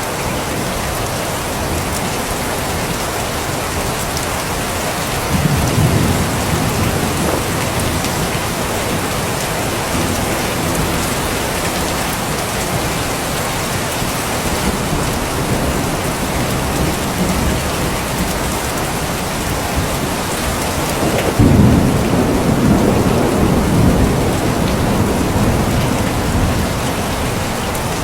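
Steady heavy rain falling, with two low rolls of thunder, one about five seconds in and a louder one about two-thirds of the way through.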